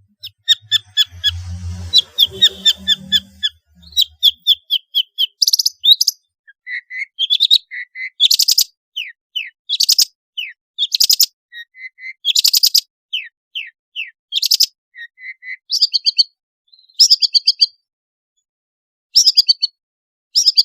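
Long-tailed shrike (pentet) singing a varied song: fast runs of short repeated notes, harsh chattering calls and short downslurred whistles, with longer pauses between phrases near the end. A faint low hum lies under the first few seconds.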